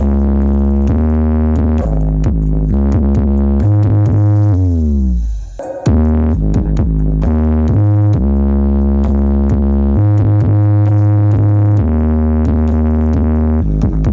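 Electronic dance music with heavy, sustained bass notes played loud through a large carnival sound system. About five seconds in, the music sweeps down in pitch and drops out briefly before the beat comes back in.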